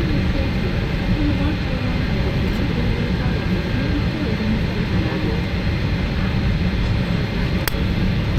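Steady low rumble of a Boeing 777-300ER's cabin noise at a window seat during pushback and engine start. A single short click comes near the end.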